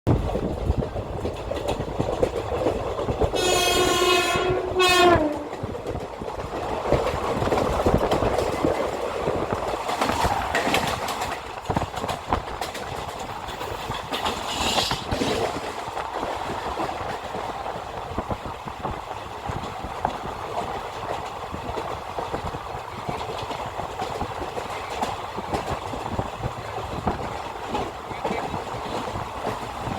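Indian Railways passenger train running, with a long horn blast about three seconds in followed at once by a short one, then the steady rumble and clatter of the train on the rails.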